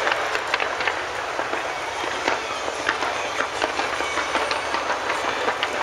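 Fireworks going off in quick succession: a dense, irregular crackle of sharp pops and bangs, several a second, over a steady wash of noise.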